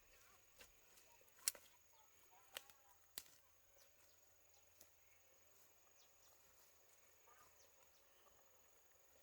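Near silence: faint outdoor ambience with a steady high insect drone and three sharp clicks or taps, the first about a second and a half in and two more within the next two seconds.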